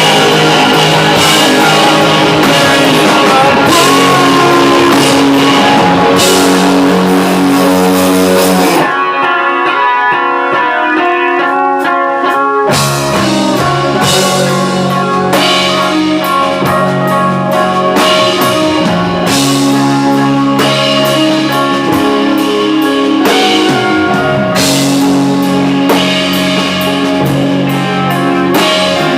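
Rock band playing with guitar and drums. About nine seconds in the drums and low end drop out, leaving a lone guitar line for a few seconds, then the full band comes back in.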